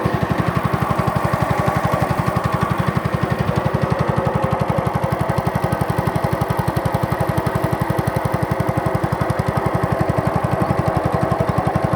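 A small boat's engine running steadily, with a fast, even pulse of firing strokes.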